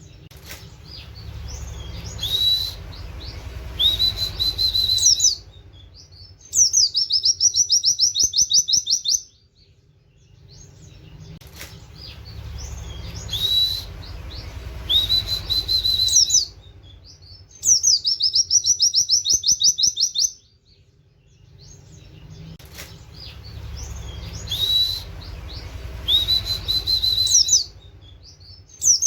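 White-eye (pleci) song in the canary-like style: a few rising 'wit wit' whistles build into a loud, rapid high trill. The same phrase repeats three times, about every eleven seconds, like a looped training recording.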